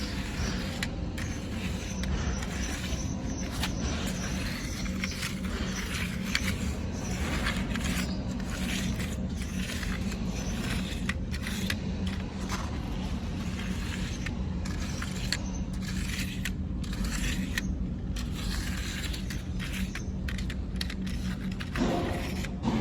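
Small electric motors of RC toy construction vehicles running with a steady hum, over continuous scraping and crackling of dirt being dug and moved.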